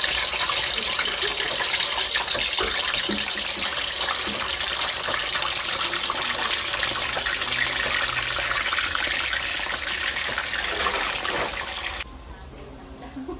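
Tofu cubes sizzling in hot oil in a frying pan, a steady loud hiss as more cubes are added. The sizzling cuts off suddenly near the end, leaving quieter room sound.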